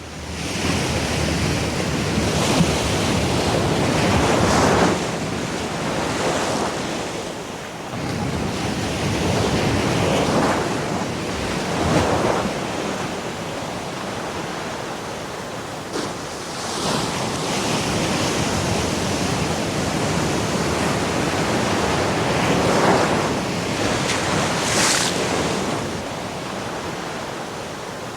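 Ocean surf: a steady rushing wash with a swell as each wave breaks, every few seconds.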